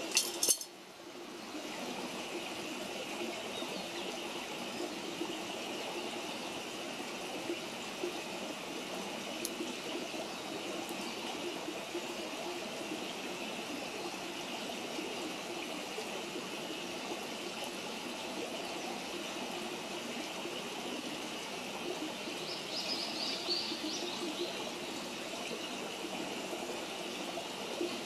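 A steady, even rushing noise like running water, with a few faint crackles. There is a sharp loud knock right at the start, and a faint high chirp about 23 seconds in.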